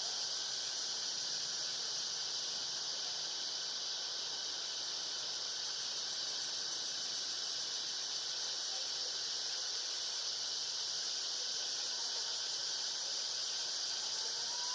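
A steady, unbroken high-pitched insect chorus, with a faint short squeak near the end.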